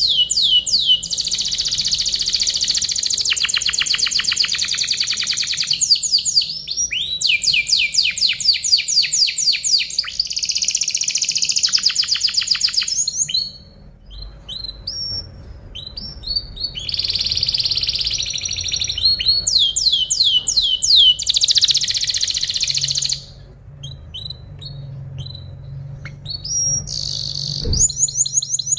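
Domestic canary singing: long, loud phrases of fast trills and rapidly repeated sweeping notes. The song breaks off twice into short pauses with only scattered chirps.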